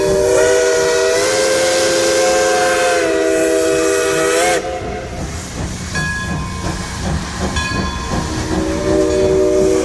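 Polson No. 2 steam locomotive's whistle blowing a long blast of several notes sounding together, with a slight shift in pitch partway through. It cuts off about four and a half seconds in, leaving the train's running rumble, and a second blast starts near the end.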